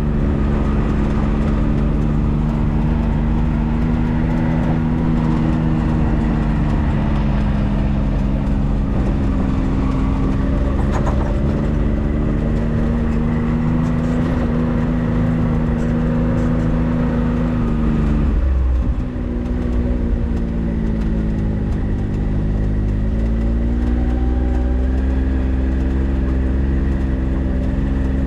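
A 4x4's engine running steadily while driving, over a heavy low road rumble. About two-thirds of the way through, the engine note drops suddenly, then climbs slowly again.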